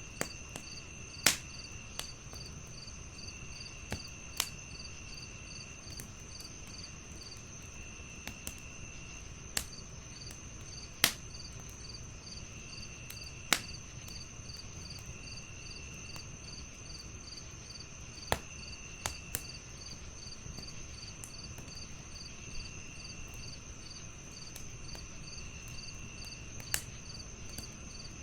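Crickets chirping in a steady, even pulse, with a second insect trilling on and off, over a crackling wood fire. The fire gives a dozen or so sharp pops at uneven intervals, the loudest sounds here.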